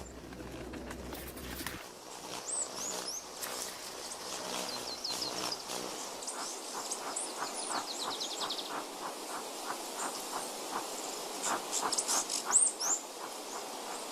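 Forest ambience: birds giving short, high chirps and sweeping calls, with a quick trill of repeated notes about halfway through, over a steady background of insects.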